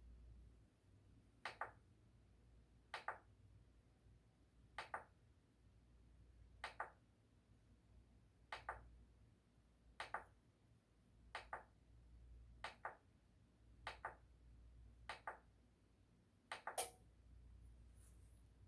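A series of short, sharp clicks over near silence, about one every second and a half. The loudest comes near the end.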